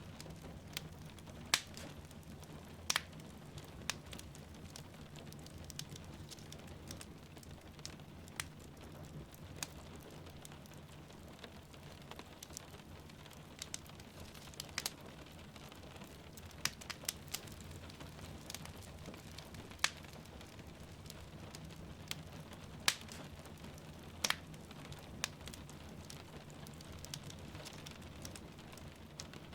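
Wood fire in a fireplace crackling, with sharp, irregular pops every second or two over a low steady rumble, and rain falling steadily in the background.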